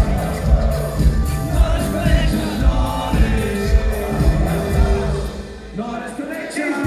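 Live concert music: a hip-hop band playing a song with a heavy, regular kick-drum beat and singing. The drums and bass drop out about five seconds in and come back just at the end.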